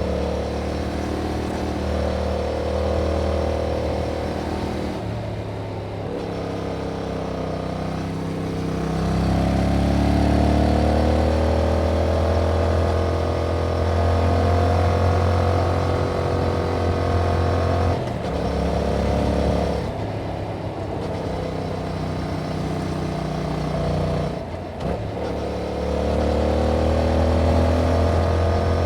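Yamaha MT-07's 689 cc parallel-twin engine through its stock exhaust under way, the engine note climbing with revs and dropping at each gear change, several times over.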